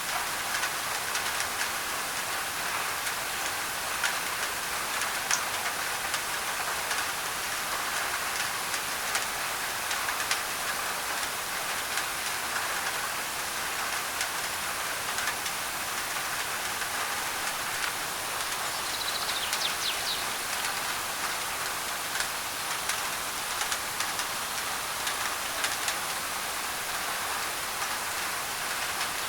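Steady heavy rain drumming on a thin tin roof: a dense, even hiss dotted with many sharp individual drop ticks. A brief high chirp sounds about two-thirds of the way in.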